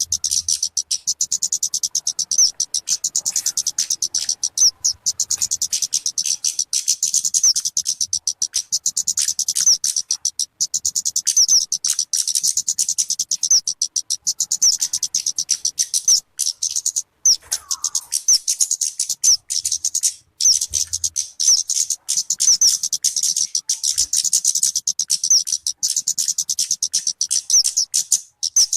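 Talokan/kemade bird calling: a fast, unbroken run of short, high chirps.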